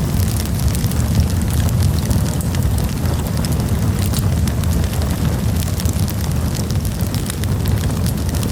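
Campfire burning: a steady low rumble of flames with frequent sharp crackles and pops from the wood.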